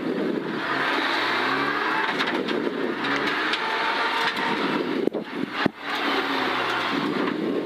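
Honda Civic rally car's engine and drivetrain heard from inside the stripped cabin, pulling away at low speed with the revs rising in short repeated climbs. A few sharp knocks come about five to six seconds in.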